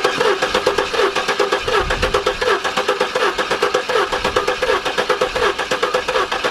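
1996 GMC Sonoma pickup's starter cranking the engine over in a steady rhythm without it catching. The engine will not fire on its own after six years of sitting and later needs a prime.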